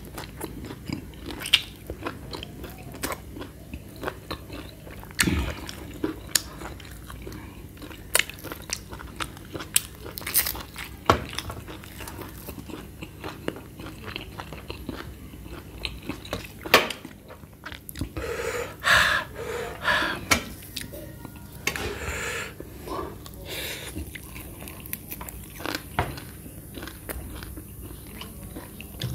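Close-miked mouth sounds of a man biting, tearing and chewing roasted goat meat off the rib bones: wet chewing with many short sharp smacks and clicks, busier and louder about two-thirds of the way through.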